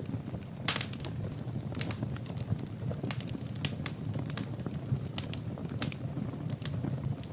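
Wood fire burning in a fireplace, crackling and popping at irregular intervals over a low steady rush of flame; one louder pop comes just under a second in.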